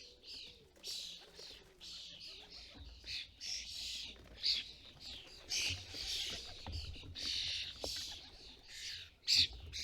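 Common starlings calling at a feeder: a rapid stream of short chirping calls, several a second and often overlapping, with a louder call about halfway through and another near the end.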